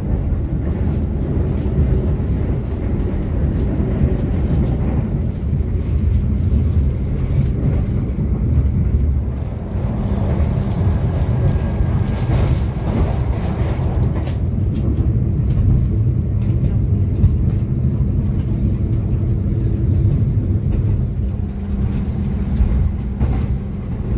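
Steady low rumble of the Argo Wilis passenger train running at speed, heard from inside an executive-class coach: wheels on rail and the coach body.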